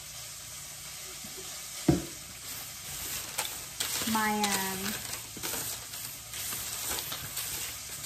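Steady sizzling of breaded chicken pan-frying in canola oil. About two seconds in there is a single knock, and from then on small clicks and crinkles of parchment paper as roasted Brussels sprouts are tossed by hand on the sheet pan.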